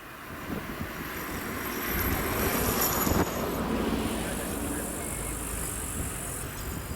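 Boeing OC-135B's jet engines running, a steady rushing noise that grows louder about two seconds in, with a thin high whine over the first few seconds.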